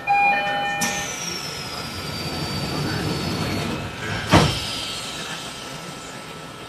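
E129 series train's door chime finishing, then a hiss of air and a single sharp thud with ringing about four seconds in, as the doors close before departure.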